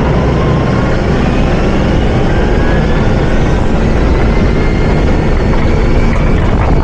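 Hyster H100FT forklift's engine running loud and steady, with a faint whine that slowly rises in pitch.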